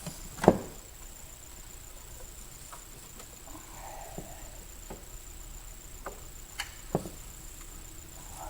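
A car's factory plastic air box and intake being worked loose by hand: scattered clicks and knocks, a sharp knock about half a second in and another near seven seconds, and a brief falling squeak around the middle.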